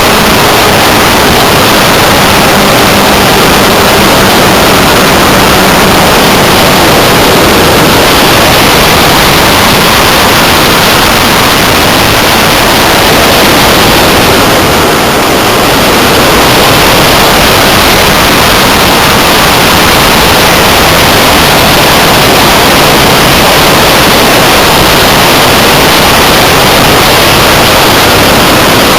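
Loud, steady rush of wind on the onboard camera's microphone of a Multiplex Blizzard electric RC plane in flight. A faint low hum fades out within the first several seconds.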